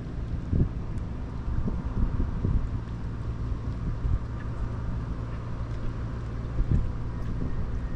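Wind buffeting the microphone in irregular low rumbling gusts, over a steady low hum.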